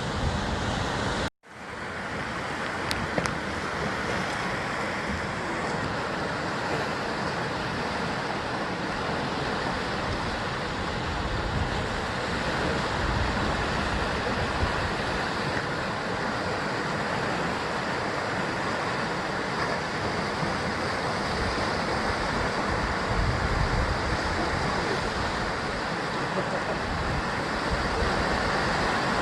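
Ocean surf washing against the rocky basalt shore of a columnar-jointed coast: a steady, dense wash of breaking waves with uneven low rumbles. The sound cuts out for a moment about a second in, then resumes.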